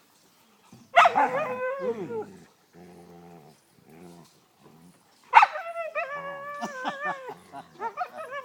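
Sled dogs vocalising in play: two long, loud whining yowls with wavering pitch, about a second in and again about five seconds in, with quieter low growls between them.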